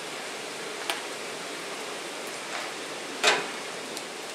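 Steady hiss of maple sap boiling in a 2x8 wood-fired evaporator, with a small click about a second in and a louder sharp clack about three seconds in.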